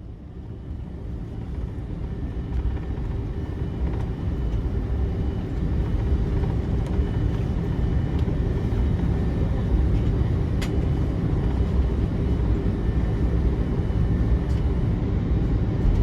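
Cabin noise of an Airbus A330-300 with Rolls-Royce Trent 700 engines taxiing: a steady low rumble and hiss with faint steady tones, growing louder over the first several seconds. A single faint click about ten seconds in.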